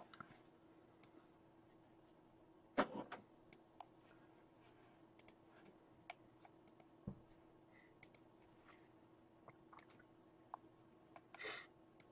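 Faint, scattered computer mouse and keyboard clicks over a steady low electrical hum, with two brief louder noises, one about three seconds in and one near the end.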